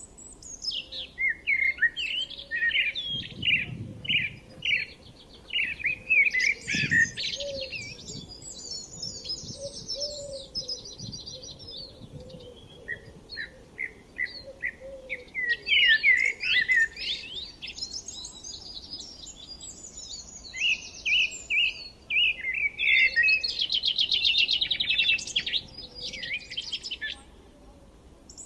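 Several songbirds singing at once, with overlapping chirps and phrases and rapid trills of quickly repeated notes.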